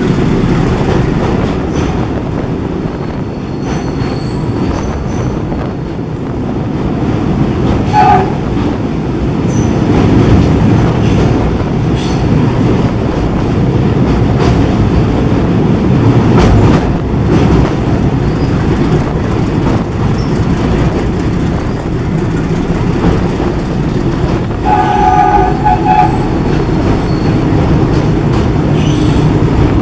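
Diesel-hauled train running on the rails with steady wheel and track rumble, a short horn note about eight seconds in and a few quick horn notes near the end.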